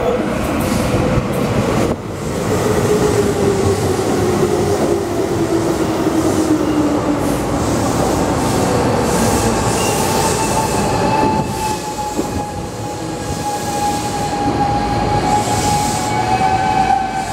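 Keihan electric commuter train pulling into the station over the rails, with a whine that falls slowly in pitch as it slows. From about halfway through, a steady high squeal runs over the rail noise as it draws to a stop.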